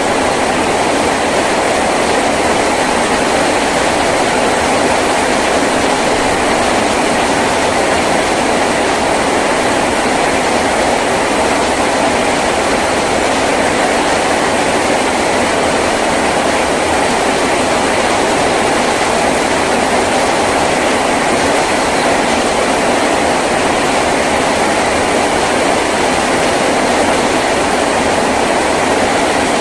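Heavy rain falling on a tin roof: a loud, steady, unbroken rush with no breaks.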